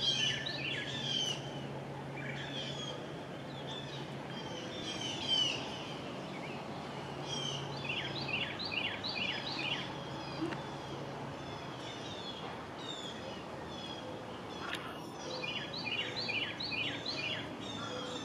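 Wild birds calling and singing, with bursts of quick repeated chirps over a steady outdoor background hiss. A low steady hum underneath stops about two-thirds of the way through.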